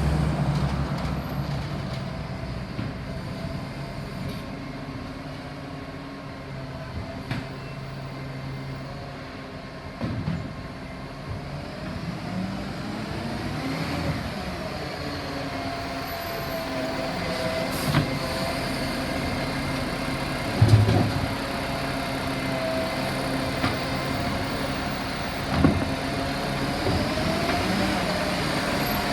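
Garbage truck engine and hydraulics running, with a steady whine that wavers in pitch, and several clunks from the bin-lifting gear, the loudest about 21 seconds in.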